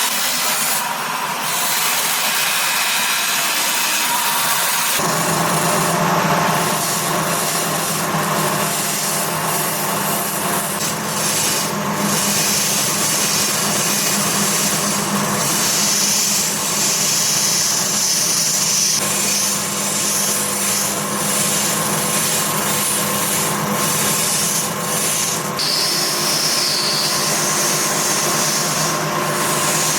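Stone-working machines grinding and cutting semi-precious stone, a steady rasping noise whose character changes abruptly about five seconds in.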